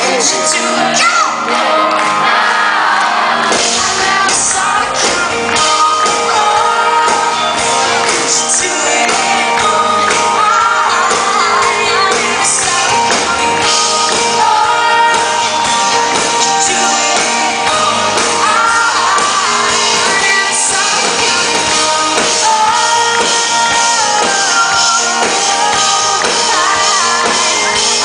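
Live band performance of a slow song, with a woman singing lead over guitar and band in a large hall. The bass and low end come in about three and a half seconds in.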